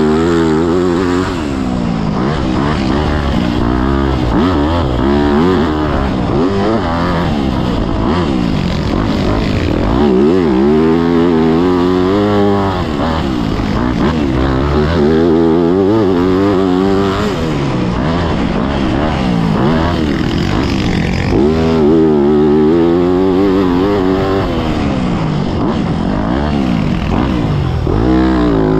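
Yamaha YZ motocross bike engine revving up and falling back again and again as it is ridden hard around a dirt track.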